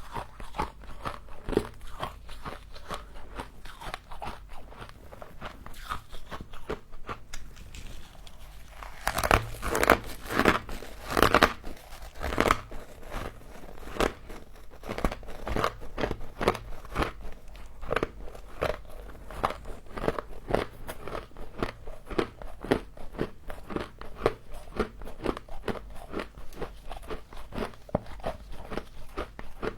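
Close-miked biting and chewing of frozen humidifier frost: a dense run of crisp crunches, louder for a few big bites about nine to twelve seconds in.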